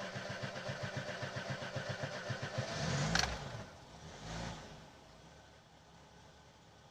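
VAZ-2106's four-cylinder carburetted engine cranking on the starter in steady strokes for about three seconds, then catching with a brief rev and a sharp click, revving once more and dropping to a quiet idle. The owner hears misfiring in it and suspects the carburettor float chamber is overflowing through a stuck needle valve.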